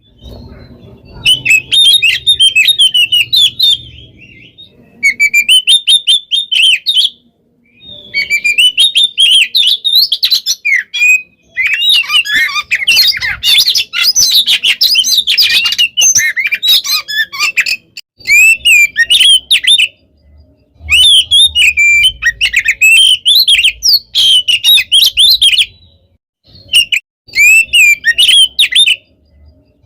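Oriental magpie-robin (kacer) singing loudly in fast, varied runs of whistles and chattering notes, each run lasting a few seconds with short pauses between. This is the rapid, nearly nonstop 'gacor' song used as a pancingan to set other magpie-robins singing.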